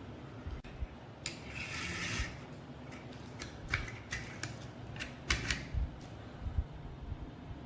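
Small metal parts being handled on a workbench: a brief rasping scrape about a second in, then a scatter of sharp clicks and taps.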